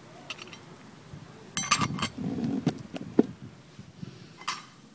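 Metal camping cook pot and lid being handled: a few sharp clinks and clatters, bunched together about a second and a half in and then single clinks near three seconds and near the end.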